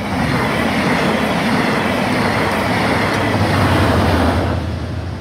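TransPennine Express passenger train passing close by at speed: a loud rush of wheels on rails that eases off near the end, with a steady low hum coming in about three seconds in as the locomotive goes by.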